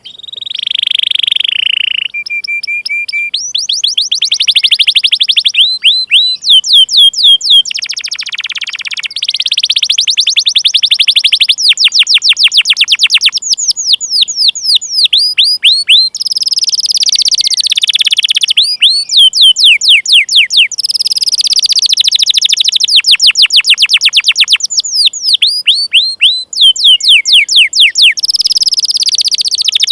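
Domestic canary singing a long, unbroken song of fast chirping trills: rapid series of high downward-sweeping 'cuit cuit' notes, with rolling stretches where the notes run together.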